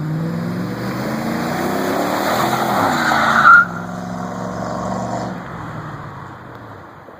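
1999 Chevy Silverado 1500's 5.3L V8, breathing through a single Cherry Bomb muffler on stock pipes, accelerating hard and growing louder. A short tire squeal comes at the loudest point about three and a half seconds in, then the sound fades as the truck pulls away.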